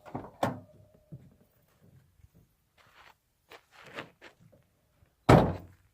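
A few scattered soft knocks and clicks, with one louder thump near the end.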